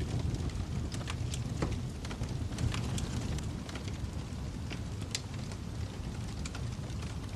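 Wood fire crackling in a fireplace: irregular sharp pops and snaps, a few every second, over a steady low rumble of the flames.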